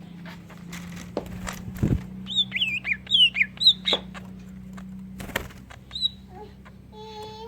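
Greater green leafbird (cucak ijo) singing a quick run of looping, swooping whistles, part of a song filled with imitated kingfisher (tengkek udang) calls. A few sharp knocks and a steady low hum sound underneath, and a short held tone comes in near the end.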